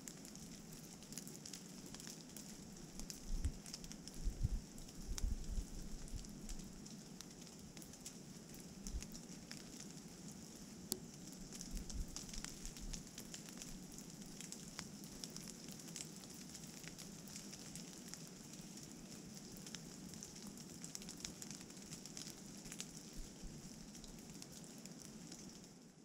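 Steady rain pattering, with many small drop ticks. Low gusts of wind rumble on the microphone about three to six seconds in.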